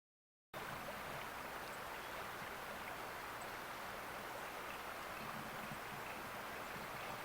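A steady rushing outdoor noise that starts abruptly about half a second in and holds an even level.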